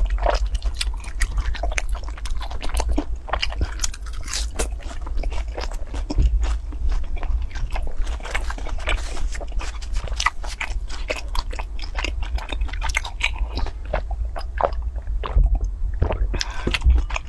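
Close-miked chewing and biting of food, with many short, irregular wet clicks and smacks of the mouth.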